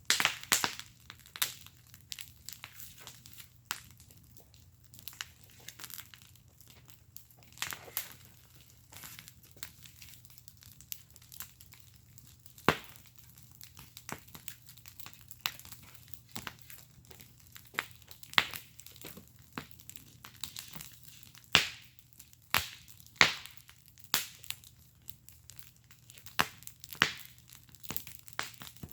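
Wood fire crackling and popping in a fire pit: irregular sharp pops and snaps, some louder than the rest, over a faint low hum.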